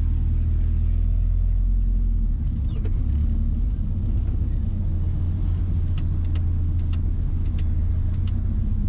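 Mazda B-series pickup engine, running on a Holley Sniper throttle-body fuel injection, with a steady low rumble. About six seconds in comes a quick string of short, sharp clicks.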